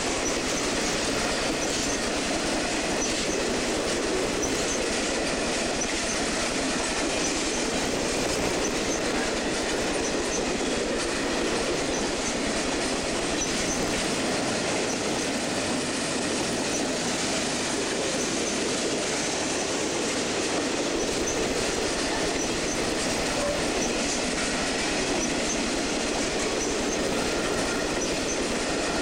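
Freight train cars rolling past, a steady, continuous sound of steel wheels on rail.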